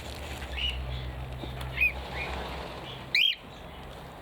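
Aviary birds chirping: a few short, scattered chirps, the loudest and sharpest about three seconds in, over a steady low hum.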